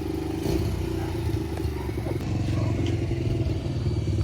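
A motor vehicle's engine running steadily, with some rattle, stopping abruptly near the end.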